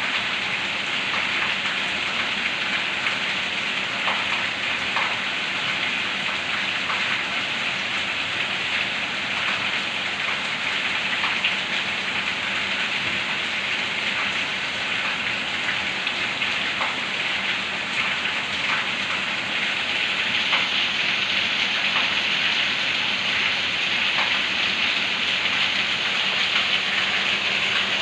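Steady rain falling, a dense even hiss with scattered louder drops.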